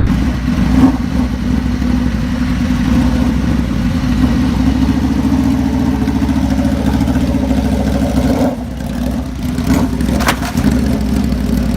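A motor vehicle engine running steadily with a constant low hum. The sound dips briefly about eight and a half seconds in, and there is a sharp click a couple of seconds before the end.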